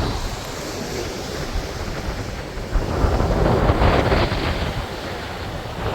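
Wind buffeting the microphone, a rough low rumble and rush that swells louder about halfway through.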